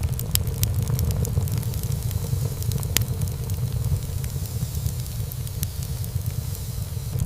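Wood fire burning in a fireplace: a steady low rumble of the flames with frequent sharp crackles and pops, one louder pop about three seconds in.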